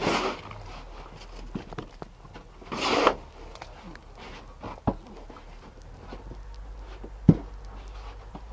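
Two brief rustling swishes, near the start and about three seconds in, and two sharp single knocks later on, over a low steady hum.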